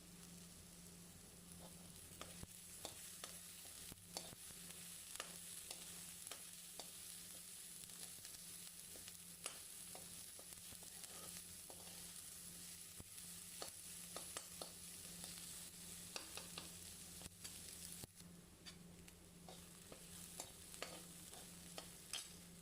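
Faint sizzling of chopped onions, green chillies and bell pepper sautéing in oil in a kadai, with scattered light clicks of a spatula stirring against the pan, over a low steady hum.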